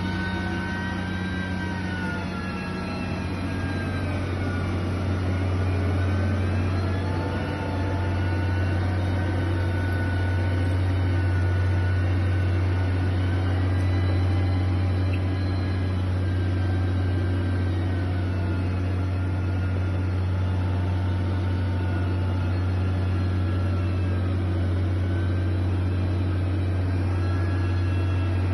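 A steady low engine rumble with a whine that rises and falls slowly, as from heavy machinery working.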